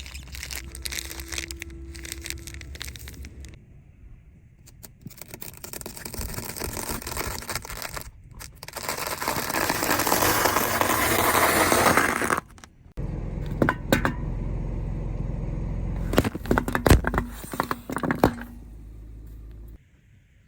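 Objects being crushed under a car's tyres: crackling, crunching and scraping with many sharp snaps, in several separate takes joined by abrupt cuts. The loudest stretch is a dense crackling crush near the middle.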